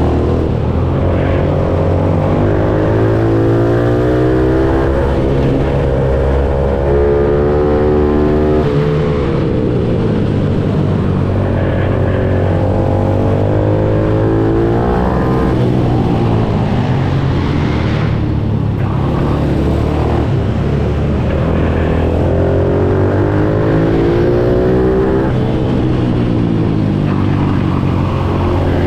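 Pitbike engine running hard, revving up and dropping back again and again as it accelerates out of corners and slows into the next.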